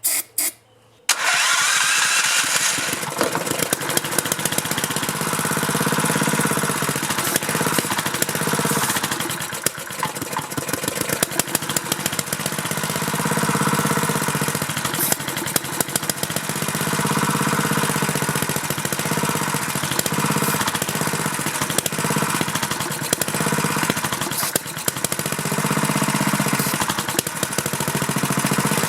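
Go-kart's small four-stroke engine, jump-started after a shot of starting ether, cranking briefly and then catching about a second in and running on. It runs unevenly, its speed swelling and sagging every few seconds, which the owner puts down to a carburetor that might be gummed up.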